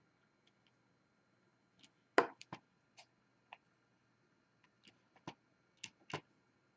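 Diamond painting pen picking up drills and tapping them onto the canvas: scattered small, sharp clicks, the loudest about two seconds in and several more close together near the end.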